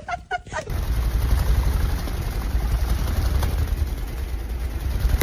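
A steady low rumble with an even hiss over it, like a running vehicle, starting just under a second in after a brief snatch of voice.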